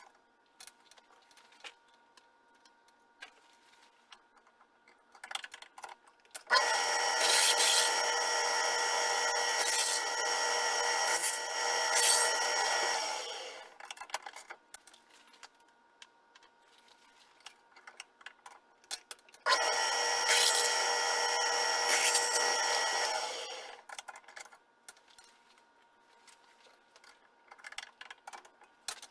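A small workshop power tool runs with a steady whine twice, about seven seconds and then about four seconds, while cutting metal; light clicks and taps come in the quiet stretches between.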